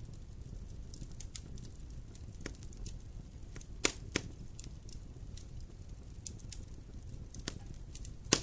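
Wood fire crackling: scattered sharp pops and snaps over a low steady rumble, with two louder pops close together about four seconds in and another near the end.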